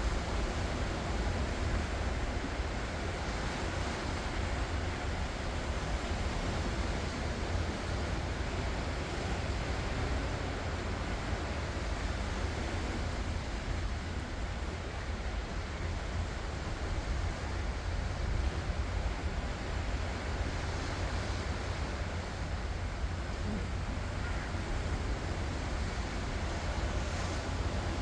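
Ocean surf: waves breaking and washing in a steady, continuous rush with a deep low rumble.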